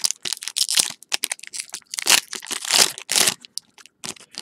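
Trading cards and their foil pack wrapper handled close up: irregular crinkling and rustling with quick card-sliding scrapes.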